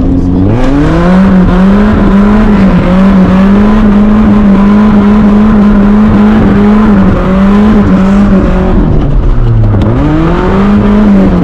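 Car engine revved up hard and held at high revs with a wavering pitch through a spin on wet pavement. Near the end the revs dip, climb once more, then fall away.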